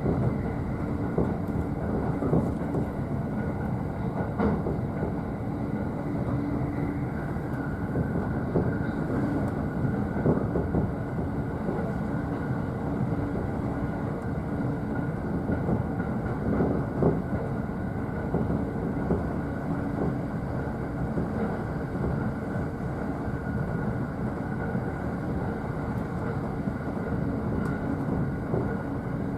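Running noise heard inside the upper deck of a JR East E531-series double-deck car at speed: a steady rumble and hum with sharp rail-joint clicks every few seconds.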